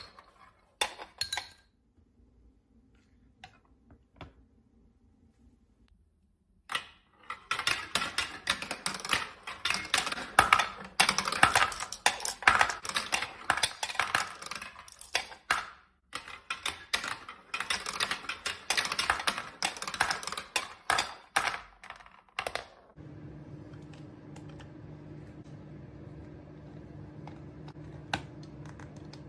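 Rapid clicking and clattering of hard plastic marble-run parts and marbles, dense and busy for about fifteen seconds after a quiet spell. Near the end it stops and a steady low hum takes over.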